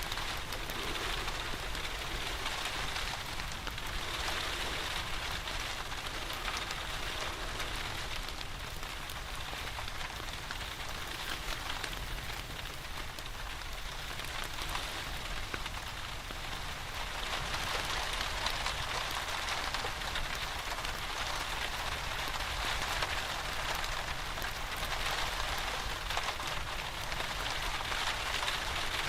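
Steady rain falling, a dense even hiss with many small drop ticks, swelling slightly in intensity a little past the middle and again near the end.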